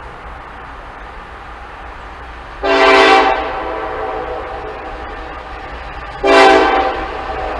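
Locomotive air horn sounding two short blasts a few seconds apart, each a multi-note chord. A train's steady low rumble runs underneath.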